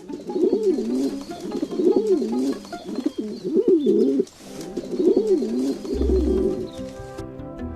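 A dove cooing: about four rolling, wavering coo phrases in a row. Music comes in near the end.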